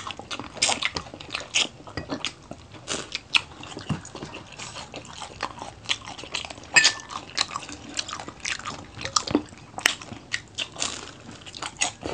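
Close-up eating sounds of two people chewing and crunching fried chicken feet and crispy dynamite rolls: irregular crunches, crackles and mouth smacks.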